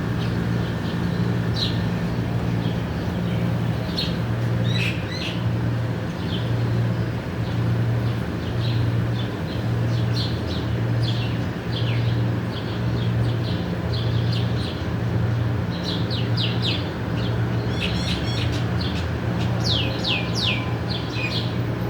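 A small songbird chirping in short, high notes, coming faster near the end with a few quick downward-sliding calls. Under it runs a loud low mechanical hum that pulses about every second and a half.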